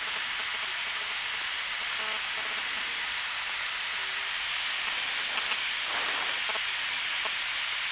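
Steady cabin noise of a Piper Archer II single-engine piston plane in flight, its engine and airflow heard as an even hiss.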